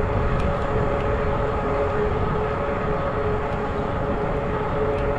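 Zota Zephyr fat-tire e-bike rolling along at a steady speed: an even hum from the drive and fat tyres, with a low rumble of wind on the microphone under it.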